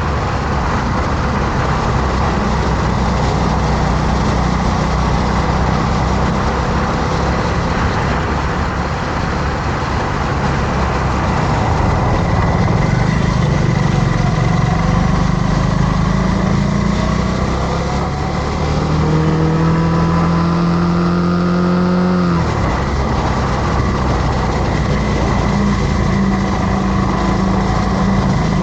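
Motorcycle engine running under way over a steady rush of road noise; about two thirds of the way through it revs up in pitch for several seconds, then drops off abruptly, as at a gear change or throttle closing.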